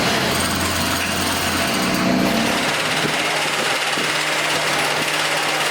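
Factory machinery running: a steady, dense mechanical noise with a low motor hum that shifts pitch a couple of times.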